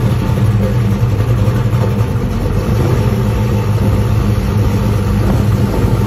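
1971 Chevrolet Nova's engine idling steadily through its exhaust as the car creeps forward.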